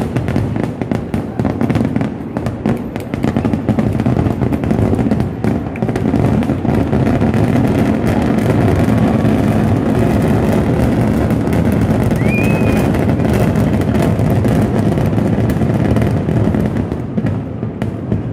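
Kerala temple-festival fireworks (vedikkettu) going off in a dense, continuous barrage of explosions and crackling, thinning out near the end.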